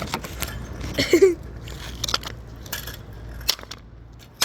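Scattered metallic clinks and knocks from a kick scooter being hammered and pulled apart, the loudest about a second in.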